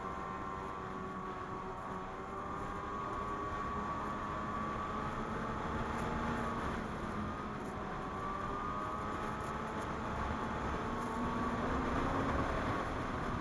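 Ski-Doo MXZ 600 Carb Sport snowmobile's two-stroke twin engine running along a trail, its pitch rising and falling gently with the throttle, over a steady low rumble.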